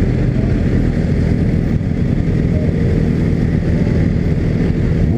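Honda CB300 motorcycle engine running steadily under way, with other motorcycles in a riding group around it.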